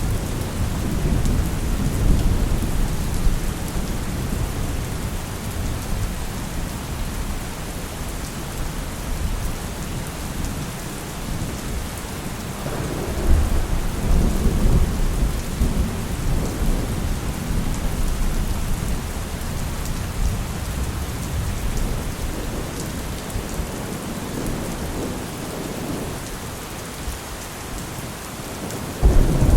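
Heavy rain falling steadily, with rolling thunder. Low rumbles swell near the start and again about halfway, and a sudden louder one breaks just before the end.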